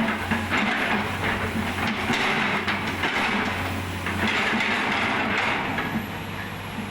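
Excavator with an Isuzu 6BG1 diesel engine running: a steady low drone with swells of harsher noise every two seconds or so.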